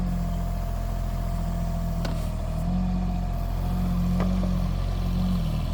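Mini excavator's engine running steadily, its note dipping and rising slightly a few times, with two brief knocks about two and four seconds in.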